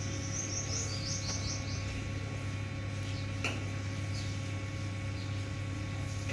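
A bird chirps in a quick run of short high notes during the first two seconds, with one more short sharp note about midway, over a steady low hum.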